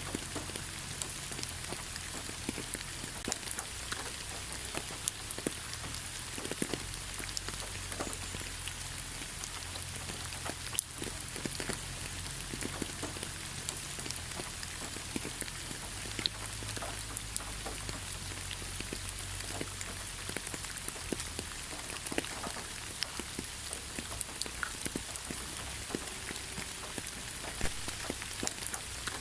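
Steady rain falling in a forest, a continuous hiss with many individual drops ticking sharply on nearby surfaces.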